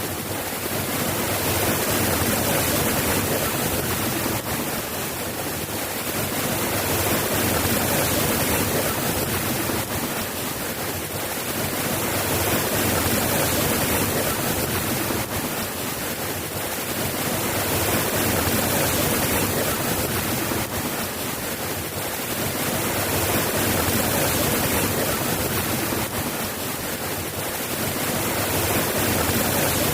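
Steady rain falling, an even hiss with no thunder, swelling and easing slightly about every five to six seconds.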